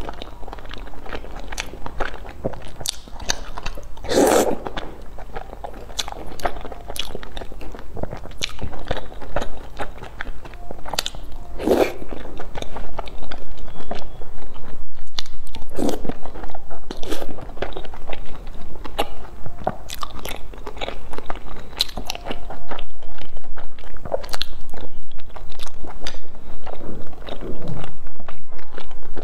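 Close-miked eating: crunchy bites and wet chewing of a round, hard-coated food, with a few louder crunches about four, twelve and sixteen seconds in. The chewing grows louder in the second half.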